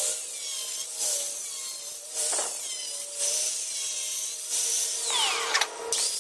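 A tool working on old tile and mortar in repeated rasping strokes, each about a second long, over a steady hum.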